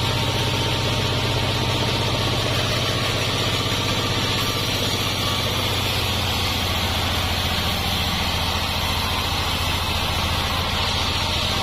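Sawmill engine running steadily at an even pitch, a low hum with no rise or fall.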